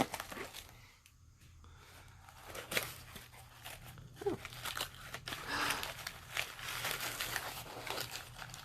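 Wrapping paper or packing material crinkling and tearing in short bursts as a small item is unwrapped by hand, quieter for the first couple of seconds and busier from about three seconds in.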